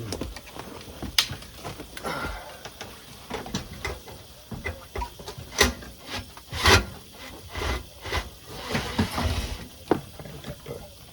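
Irregular clicks and knocks of hard objects being handled, with a few short scrapes, loudest about a second in and between five and seven seconds in.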